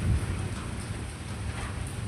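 Steady rain falling during a thunderstorm, under a low rolling rumble of thunder.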